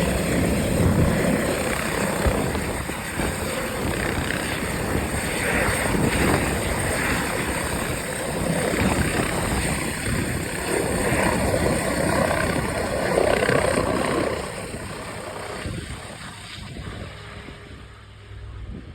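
Emergency medical helicopter's rotor and turbine noise, a dense rushing sound that drops away about three-quarters of the way through as the helicopter moves off.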